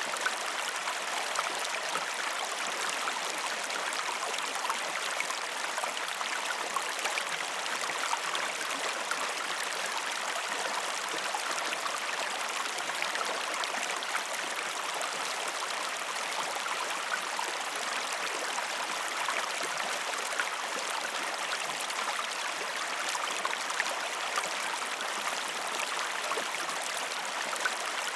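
Waterfall with steady rushing and splashing water, an even hiss with no breaks or changes.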